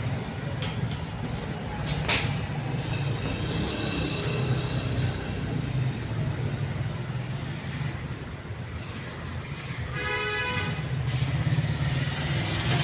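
Vehicle engine running with a steady low rumble, with a sharp click about two seconds in and a short pitched tone about ten seconds in.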